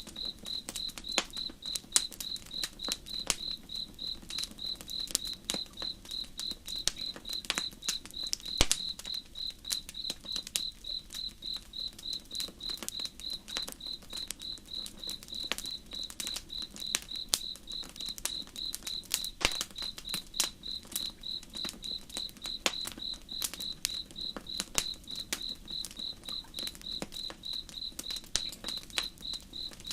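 Cricket chirping in a steady, evenly pulsed high trill, over a campfire crackling with sharp, irregular pops.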